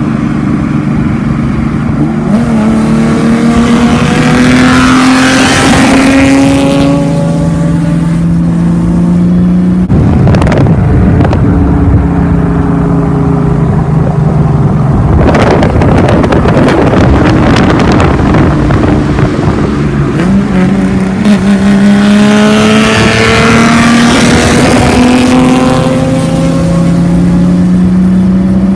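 Mitsubishi FTO's MIVEC V6 running loudly through a straight-pipe exhaust with only a resonator, its pitch climbing twice under throttle and settling in between.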